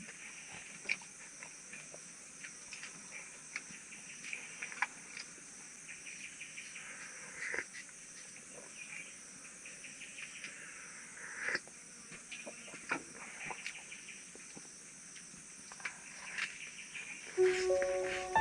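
Steady high-pitched chorus of insects such as crickets, with scattered small clicks and knocks. Background music comes in near the end.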